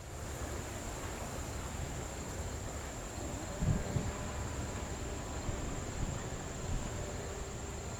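Steady high-pitched insect chorus over a low wind rumble, with a couple of soft low thumps around the middle.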